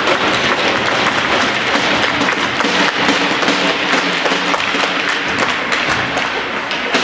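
Ice rink noise during a youth hockey game: a dense, continuous clatter of sharp taps and knocks over a steady low tone.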